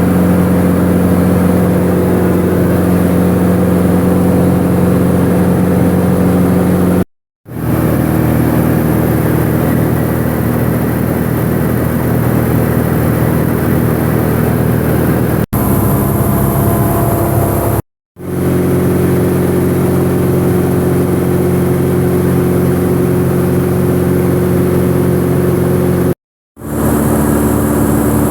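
Piston engine and propeller of a single-engine light aircraft running steadily, heard from the cockpit, in several clips joined by cuts. The sound drops out briefly about seven, eighteen and twenty-six seconds in, and its pitch shifts at each cut and again at a sudden jump about fifteen seconds in.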